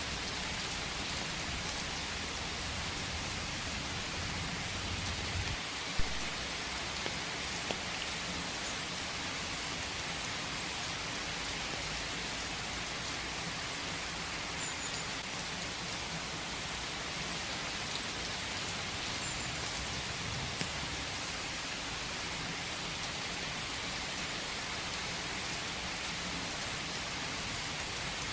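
Steady rain falling in a forest, an even hiss of drops with a few single sharp taps, the loudest about six seconds in. A low rumble underneath fades out at about the same point.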